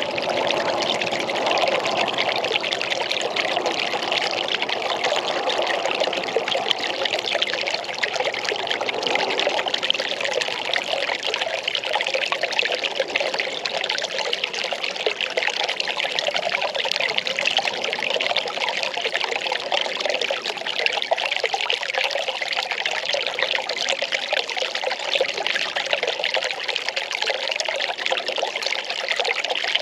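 Well water pouring and trickling steadily, splashing continuously; a deeper part of the splashing eases about ten seconds in.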